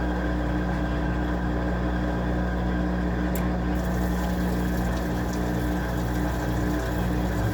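Washing machine running, a steady motor hum with a low drone under it.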